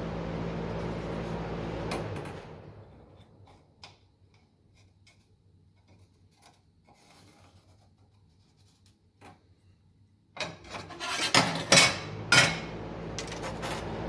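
A steady machine hum dies away about two seconds in, leaving a few light ticks. Near the end come loud metallic clanks and rattles, steel parts and tools being handled, as the hum starts up again.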